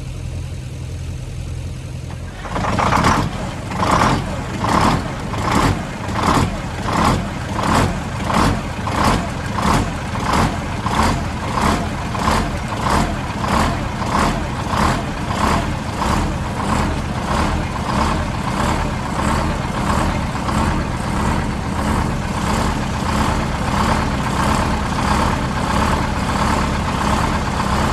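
A small front-end loader's diesel engine catches on a cold start without any pre-start, about two and a half seconds in, after a steady low drone. It runs with a rhythmic pulsing about once a second that evens out into steady running.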